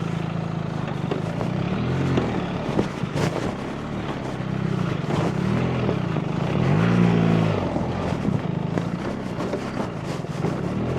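BMW R 1300 GS Adventure's boxer twin engine under way off-road, its pitch rising and falling about three times as the throttle is opened and closed. Scattered sharp knocks run through it.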